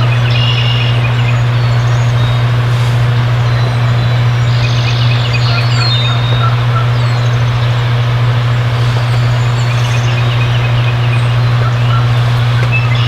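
Wild turkey gobblers gobbling in the distance a few times, with small songbirds chirping, over a loud steady low hum.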